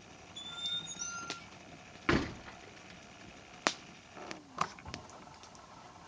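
Wood fire crackling: a handful of sharp pops, the loudest about two seconds in, over a faint hiss of burning.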